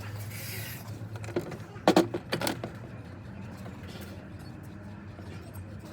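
A few sharp metallic clinks and knocks from tools and metal parts being handled, about two seconds in, with fainter ticks later, over a steady low hum.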